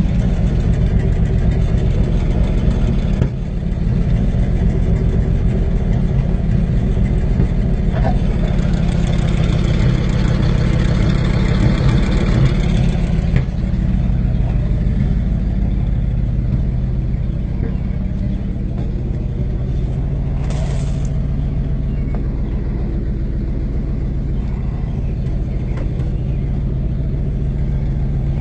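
Vehicle engine idling steadily, a continuous low drone with no change in speed.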